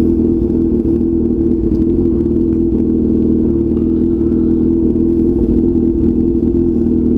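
Motorcycle engine idling steadily while the bike is stopped.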